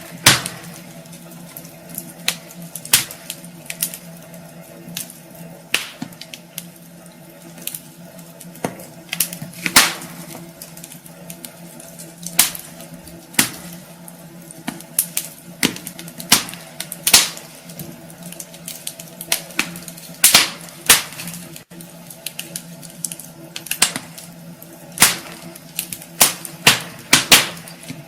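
Wood fire in a fireplace crackling, with irregular sharp pops and snaps of burning logs over a steady hiss.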